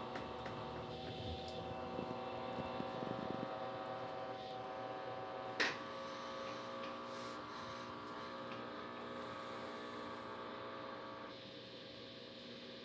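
Electrolux LTC15 top-load washing machine in an intermediate spin, its motor and basket running with a steady hum. There is a single sharp click about halfway through, and the sound drops and changes near the end as the spin winds down.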